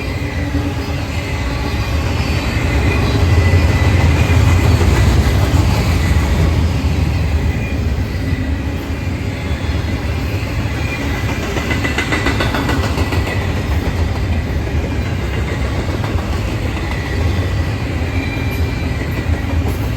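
Long freight train of intermodal cars rolling steadily past, with a continuous low rumble of wheels on rail that swells a few seconds in. A thin high wheel squeal runs underneath, and a run of rapid clicking from wheels over rail joints comes about twelve seconds in.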